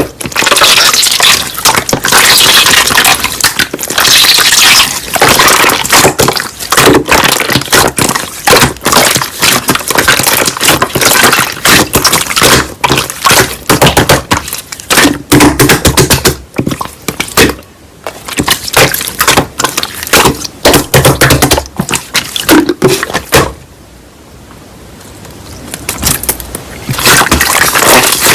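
Slime being squeezed and pressed by hand: a dense run of crackling, popping clicks, with a short lull a few seconds before the end.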